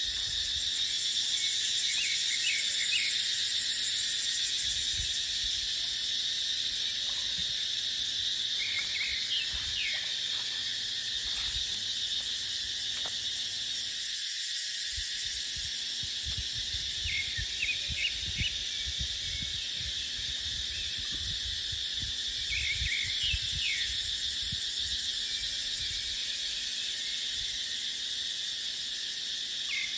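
Cicadas droning steadily in a high, even buzz, with wind gusting on the microphone in low rumbles. A few short chirps come through every several seconds.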